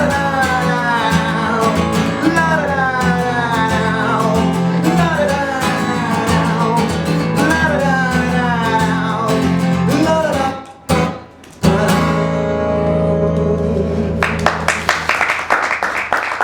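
Acoustic guitar strumming under a wordless sung melody. About two-thirds of the way in the music breaks off briefly, a final guitar chord rings out, and applause starts near the end as the song ends.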